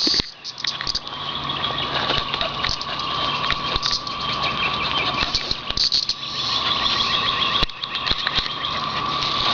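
A cicada chorus: one steady drone without a break, with scattered clicks and rustles over it. The chorus has thinned out because the cicadas are dying off at the end of their season.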